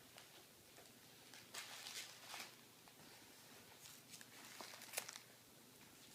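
Faint intermittent rustling with light clicks, a little louder a couple of seconds in and with a few sharper ticks near the end.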